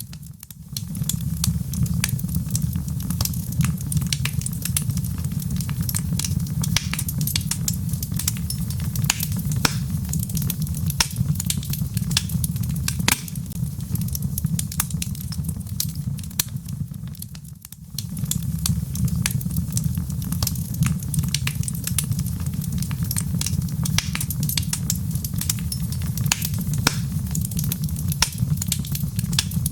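Wood fire burning in a fireplace: a steady low rumble of flames with dense, irregular crackles and pops from the burning logs. The sound dips briefly twice, once near the start and once a little past the middle.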